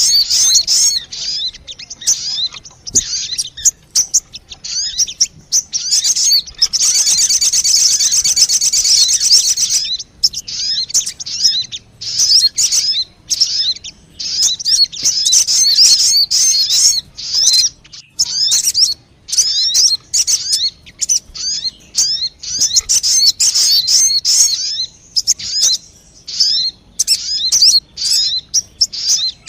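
Sogon bird lure call: rapid, high-pitched chirping and twittering in quick runs with short pauses, rising to a dense continuous trill a few seconds in.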